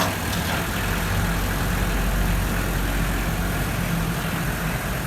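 Kubota L4202DT tractor's diesel engine idling steadily.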